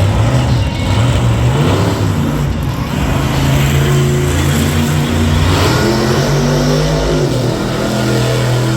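Monster truck engine running loud in the arena, its pitch stepping up and back down as the throttle changes.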